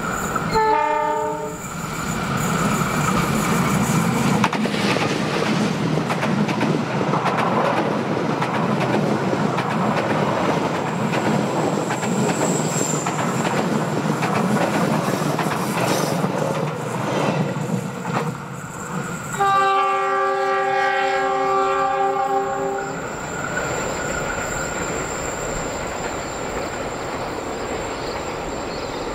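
Indonesian KAI passenger train passing close by: the diesel-electric locomotive's horn sounds briefly about half a second in, then the coaches pass, wheels running over the rails. A second, longer horn blast of about three seconds comes around twenty seconds in, and the train's sound then eases as it moves away.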